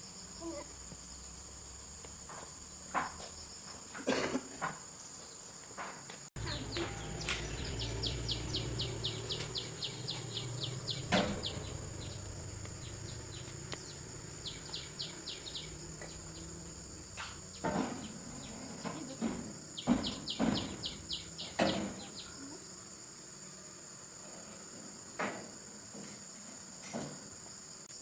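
Crickets chirping in a steady high drone, with runs of rapid ticking and scattered clicks and knocks.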